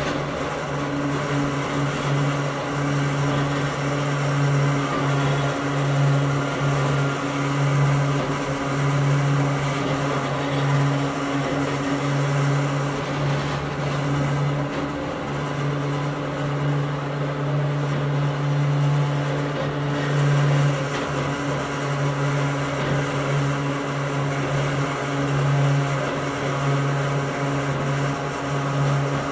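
Interior running sound of a Hakone Tozan Railway Moha 1 electric car, an old type with nose-suspended traction motors. A steady low hum from the motor and gear drive, gently pulsing, sits over continuous wheel-on-rail noise.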